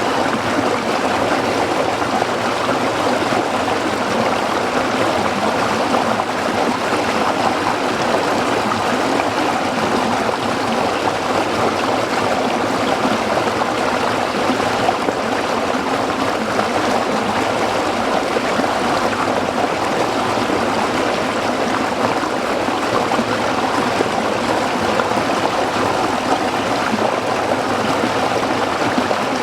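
A small stream flowing and splashing over rocks, a steady, even rush of water with no pauses or changes.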